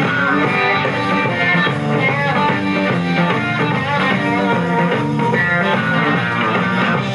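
Live blues-rock band playing an instrumental break: electric guitar lines over bass guitar and drums, with no singing.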